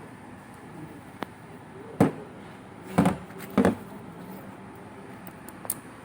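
Tools and parts knocking during work on a dismantled power steering rack: four sharp knocks about a second apart, with a few lighter clicks near the end.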